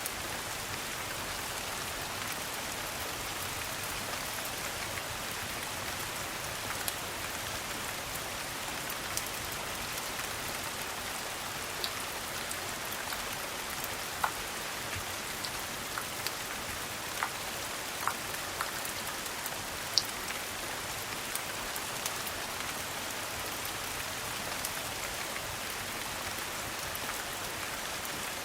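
Steady rain falling in an even patter, with a few sharp clicks standing out here and there.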